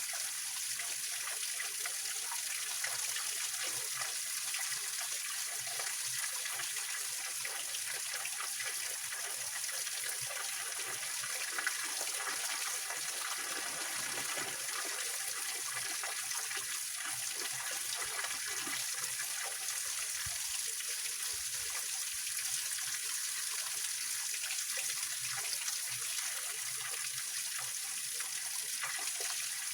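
Small waterfall on a rocky mountain stream: water splashing and trickling over rocks in a steady, even rush.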